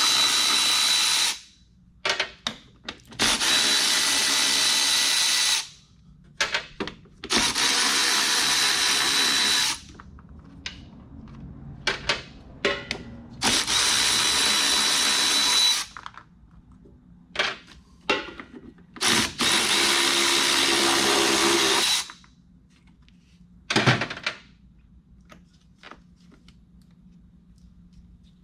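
Cordless drill with a steady high whine, run five times for about two seconds each while spinning the nuts off truck battery terminals. Short clinks and knocks of the cables and hardware being handled come between the runs, with one sharper knock near the end.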